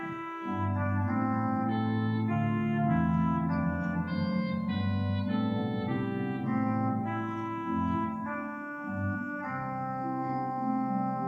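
Church organ playing sustained chords over a low moving bass line, the chords changing every second or so.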